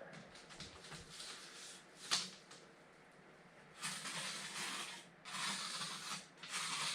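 A single sharp click about two seconds in, then three rough scraping strokes in a row, the first the longest, while a sheet of cement board is being measured and marked for a cut.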